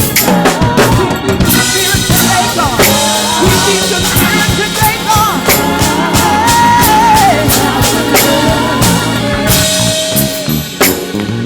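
Live gospel church band playing, with a drum kit driving a steady groove of bass drum, snare and cymbal hits under a held, wavering melody line.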